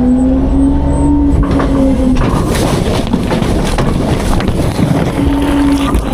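Autocar-Heil Freedom front-load garbage truck running while packing, with a steady hydraulic whine over the engine. The whine drops out about two seconds in for a rough, noisy stretch and returns briefly near the end.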